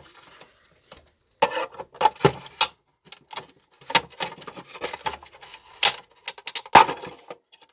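Irregular clicks, taps and knocks of hard plastic vacuum-cleaner parts being handled and pried at while the wheels are worked off their snap clips, with one sharper knock about seven seconds in.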